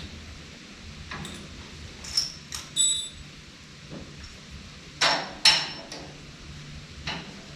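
Sharp metal clinks and knocks of tools and hardware being handled, about eight separate strikes, one ringing briefly and the loudest two coming close together about five seconds in.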